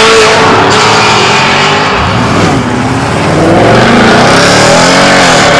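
Tuned supercar engine revving loudly, its pitch rising and falling, with another engine note climbing about two seconds in.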